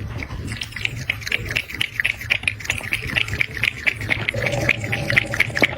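A pet animal making quick, repeated short sounds, about six a second, over a low steady hum.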